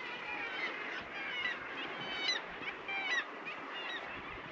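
A colony of seabirds calling over one another: many short, high calls in quick succession, several a second, over a steady hiss.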